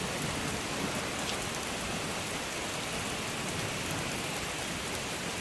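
Steady rain falling, an even hiss with faint drop ticks; the low thunder rumble has faded out.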